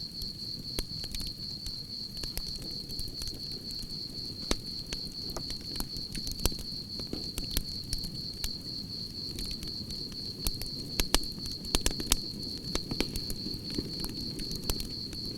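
Campfire crackling, with sharp pops scattered throughout and coming thicker about two-thirds of the way through, over a low steady rumble of burning wood. Crickets keep up a steady high trill behind it.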